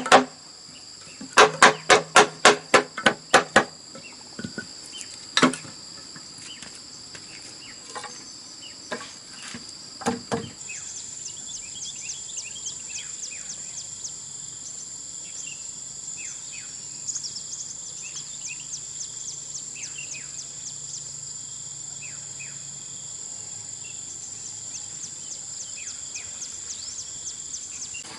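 A quick run of about nine sharp knocks, roughly four a second, then a few single knocks. After that a steady high-pitched insect chorus of crickets or cicadas, with rapid chirps running over it.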